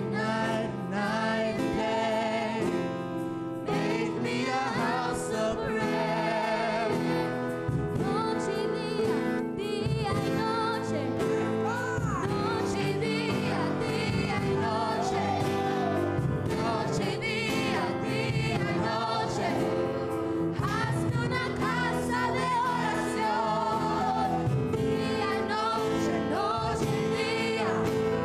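A vocal group singing a gospel worship song in harmony, several voices holding notes with vibrato.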